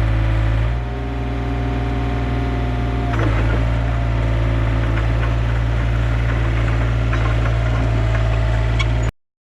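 Yanmar B37 mini excavator's diesel engine running steadily. Its note drops about a second in and picks up again about three seconds in, with a few light clicks over it. It cuts off abruptly near the end.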